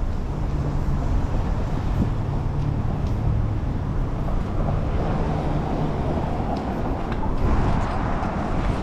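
Road noise from a city bike ride: wind rumbling on the camera microphone with traffic around it. The noise swells near the end.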